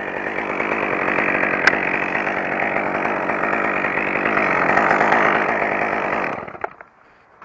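Chainsaw engine running steadily, its pitch wavering, then dying away suddenly about six seconds in.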